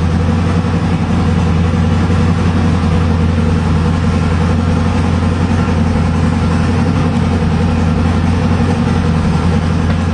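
Twin-turbocharged 388 cubic inch LSX V8 running at a steady idle, loud and even, with no revving.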